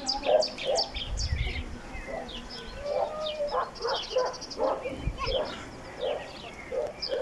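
Small birds chirping and twittering throughout, with a dog yipping in short repeated calls, about two a second, through the second half. A low rumble sounds briefly twice.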